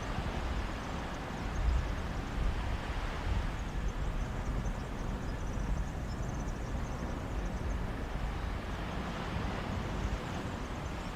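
Sea waves washing onto a beach, a steady rushing wash that swells and eases, with wind buffeting the microphone in low rumbling gusts.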